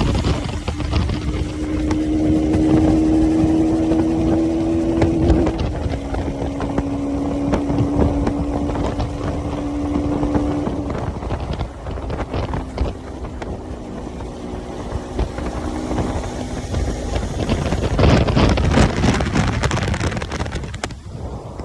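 Motorcycle engine running while riding, its pitch creeping up and then dropping suddenly about five seconds in, and settling lower later on. Wind buffets the microphone loudly near the end.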